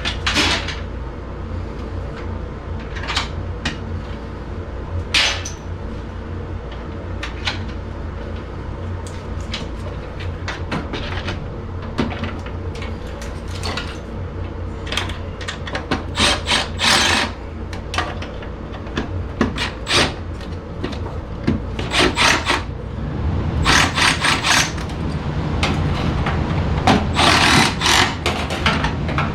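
Hand tools working on furnace sheet metal: scattered clicks and scrapes, with bursts of rapid clicking in the second half, over a steady low hum.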